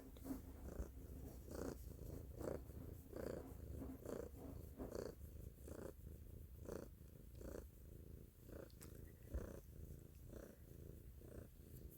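Domestic cat purring steadily, the purr swelling and easing with each breath a little under once a second.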